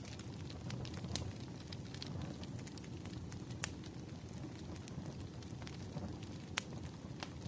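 Wood fire burning: a steady low rumble with frequent sharp crackles and pops. A few pops stand out louder than the rest, the strongest about six and a half seconds in.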